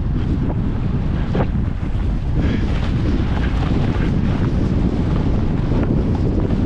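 Wind buffeting the microphone of a skier moving downhill, with a few short scrapes of skis on snow.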